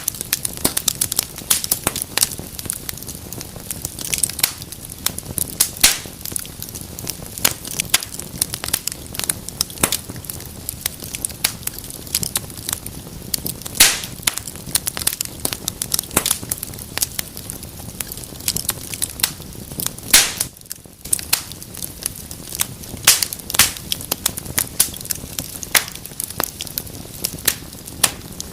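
Fire in a fireplace crackling steadily: a dense run of sharp pops and snaps over the low rush of the flames, with a few louder snaps about halfway through and about two thirds in.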